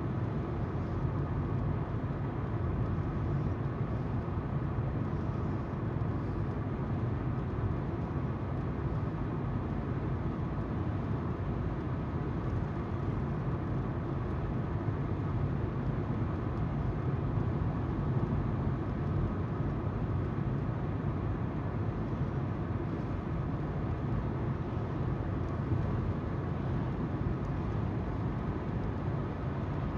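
Car driving at steady speed: even tyre noise from the wheels on the road over a low engine hum, with no change in pitch or level.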